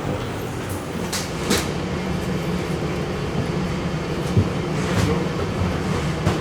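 Steady low rumble and hum of machinery or ventilation, with a few sharp clicks about one and one and a half seconds in and again near the end, and a single knock shortly before that.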